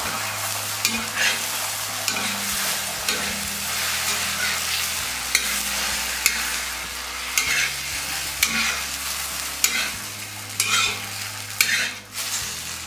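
Egg kalakki sizzling on a black iron tawa while a metal spatula folds and scrapes it, with sharp scrapes and taps of the spatula on the pan roughly once a second.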